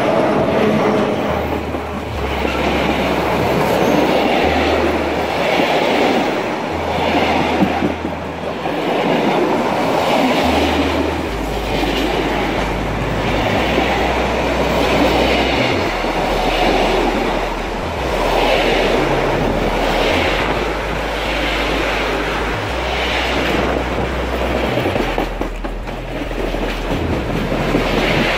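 Container freight train wagons rolling past close by: steady wheel-on-rail rumble with the clickety-clack of wheels over rail joints repeating in a regular rhythm.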